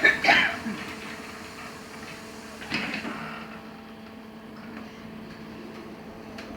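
Steady hum inside a LiAZ-6274 electric bus under way, with a short hiss about three seconds in.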